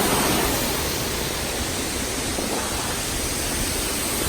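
Waterfall water rushing, a steady loud hiss.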